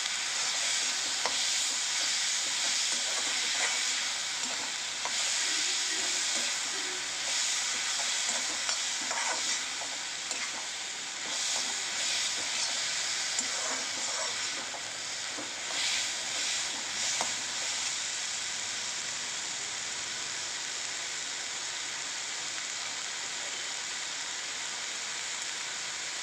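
Onions and tomatoes with ginger paste sizzling as they sauté in a kadai, with a metal slotted spatula scraping and clinking against the pan as they are stirred. The stirring stops about two-thirds of the way through, leaving only the steady sizzle.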